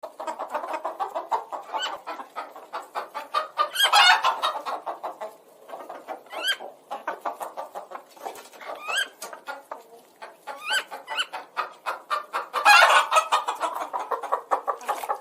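Chickens clucking: a dense run of quick clucks with sharp rising squawks every couple of seconds, loudest in two bursts, one near the start and one near the end.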